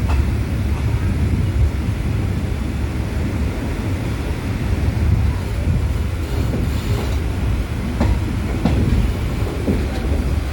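Passenger train running with a steady low rumble, with a few faint clicks from the wheels and couplings.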